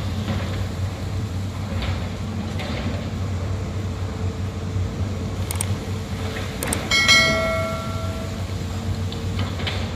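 Excavator's diesel engine running steadily with a low hum. About seven seconds in, a single sharp metallic clang rings out for about a second before fading.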